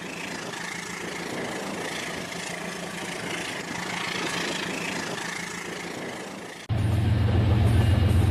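Rail King model train running on its track, a steady mechanical whirr with rail noise. About two-thirds of the way through it cuts abruptly to a louder, steady low drone.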